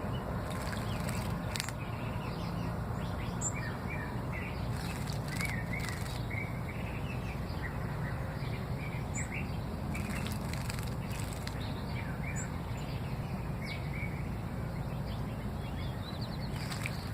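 Birds chirping in short, scattered calls, with several brief bursts of wing-flapping splashes as a bird bathes in a birdbath, over a steady low background rumble.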